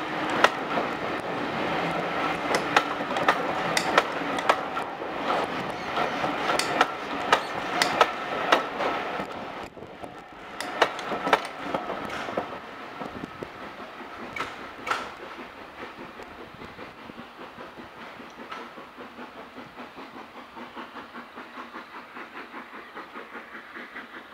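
Railway passenger coaches rolling past close by, their wheels clicking sharply and repeatedly over the rail joints. About halfway through the sound fades as the train moves away, and the clicks die out.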